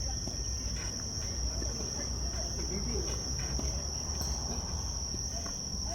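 A steady, unbroken high-pitched insect drone, like a chorus of crickets or cicadas, over a low background rumble.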